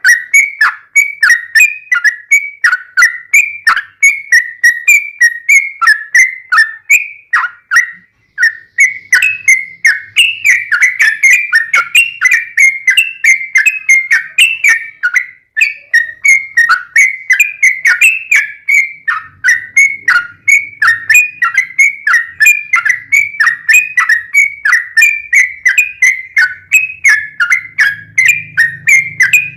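Yellow-vented bulbul (trucukan) singing a long unbroken series of short, falling chirped notes, about three a second, used as a lure song to set other bulbuls singing.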